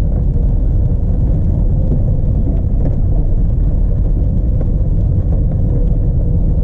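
Steady low rumble inside the cabin of a Chevrolet Corsa GL 1.6 on the move: the 1.6-litre four-cylinder engine and road noise, with a faint steady hum over it.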